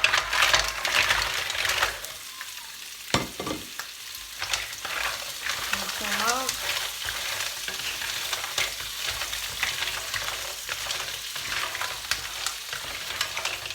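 Mussels tipped into a pan of hot olive oil with garlic and harissa, sizzling loudly for the first couple of seconds, then frying steadily while being stirred, with sharp clicks of the shells against the pan.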